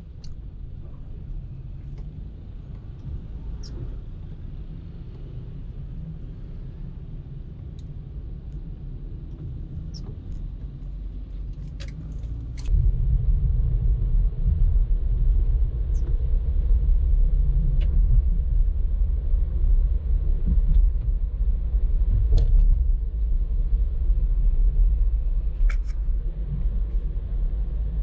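Car driving in traffic: a steady low rumble of engine and road that grows suddenly louder about halfway through and stays loud, with a few faint clicks.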